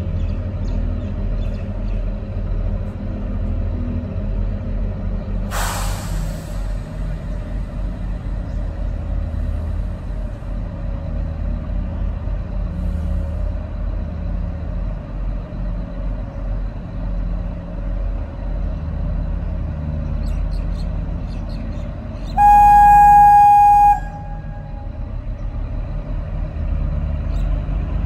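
Kalka–Shimla narrow-gauge train pulling away, its engine giving a steady low rumble. A short hiss about six seconds in, and one horn blast lasting about a second and a half near the end.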